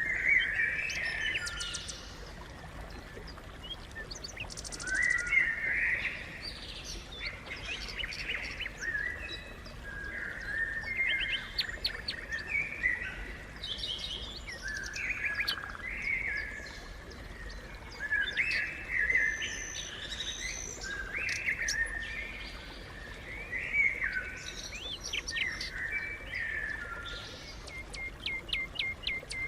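House sparrows chirping, repeated short calls that overlap at times, ending in a quick run of short chirps near the end.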